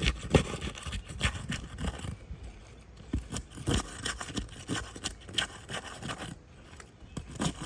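Irregular scraping and rubbing of a metal roof snake worked under asphalt shingles, with occasional knocks, breaking the shingles' adhesive seal.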